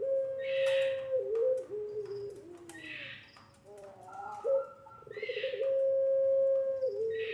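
Puter pelung dove (a long-calling ringneck dove breed) cooing: two long calls, each a steady drawn-out note that steps down lower and wavers at its close. Short, higher hoarse sounds fall between the calls.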